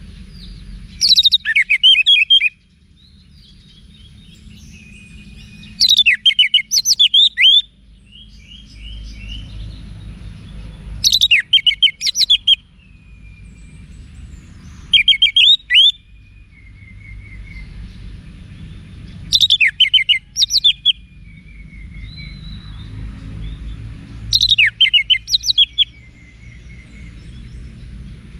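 Orange-headed thrush singing: six loud, fast phrases of sharp sweeping notes, one about every four to five seconds, with softer short notes between them. A steady low background rumble runs underneath.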